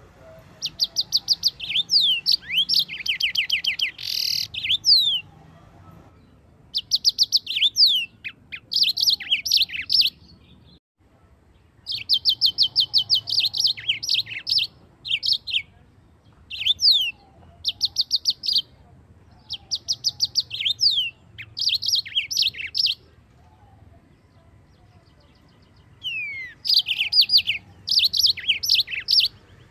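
Yellow-fronted canary (mozambik) singing in long rolling phrases of rapid high trills and quick sweeping notes, each burst lasting a second or two, with short pauses between.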